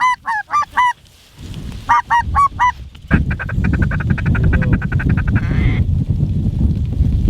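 Snow goose honks: a quick run of about four calls in the first second and four more around two seconds in. After that comes a faster chatter of short calls, about ten a second, until shortly before the end, with wind rumbling on the microphone.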